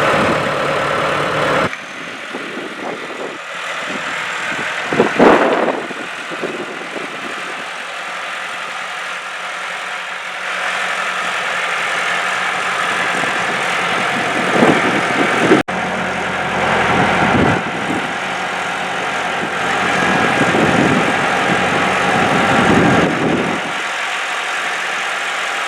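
Engine of a machine with pallet forks running as it carries a load, with a loud knock about five seconds in and another near fifteen seconds; the sound cuts abruptly twice.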